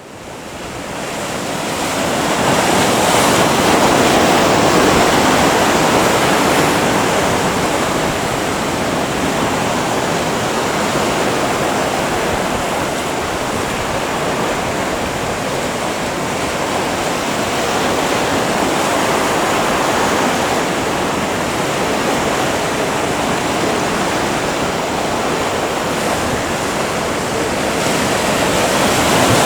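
Atlantic surf breaking in a continuous wash, swelling and easing slowly as the sets come in, fading up over the first couple of seconds.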